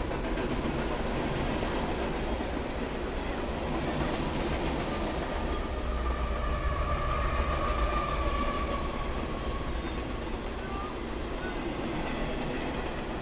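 Freight train rolling past: steady rumble and clatter of boxcar wheels on the rails. About halfway through, the sound swells as a pair of mid-train CSX diesel locomotives (distributed power units) goes by, with a deeper engine drone and a steady whine, then eases back to the rolling cars.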